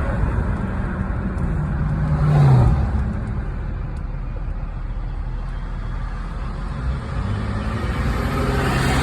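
Motor vehicles passing on a road: steady engine rumble, with one vehicle going by about two and a half seconds in, its engine tone dropping in pitch, and another approaching near the end.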